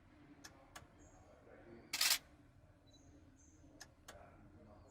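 A camera shutter releasing once, loud and short, about two seconds in, with a few faint clicks before and after it.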